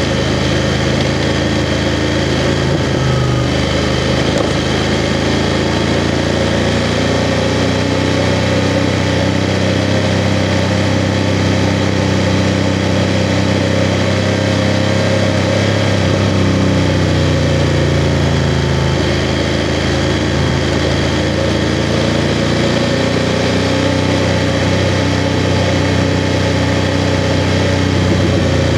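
BMW F 750 GS motorcycle's parallel-twin engine running at low, fairly steady revs while riding, its pitch easing up and down a little, under a steady hiss.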